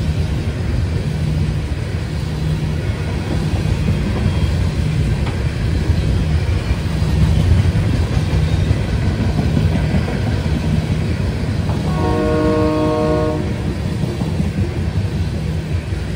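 A freight train of tank cars rolls past close by, a steady rumble of wheels on rail with a rhythmic clatter. About three-quarters of the way through, a train horn blows once, a chord of several tones lasting about a second and a half.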